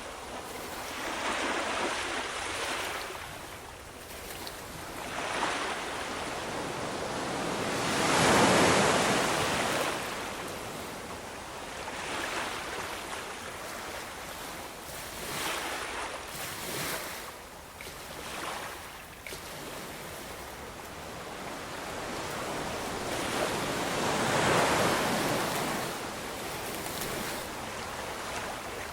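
Ocean waves breaking and washing up on a shore, a steady hiss that swells and fades; the two biggest waves come about 8 seconds in and again near the end.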